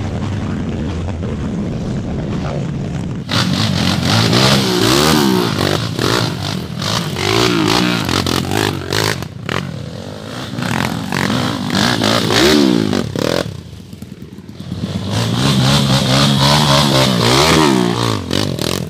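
Dirt-bike engines running under load as trail motorcycles climb a muddy track, revving up and dropping back again and again. For the first three seconds or so there is a steadier engine drone before the sound changes abruptly.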